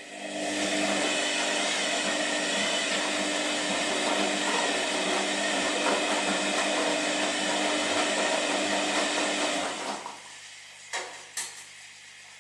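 Washing machine running: a loud, steady whirring that starts suddenly, holds for about ten seconds and then stops, followed by two short clicks.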